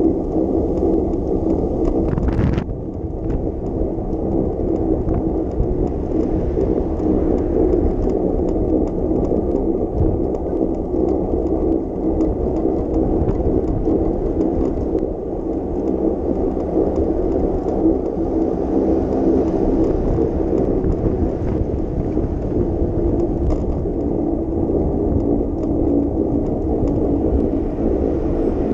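Steady low rumble of wind and road noise from a moving bicycle, with a brief higher sound about two and a half seconds in.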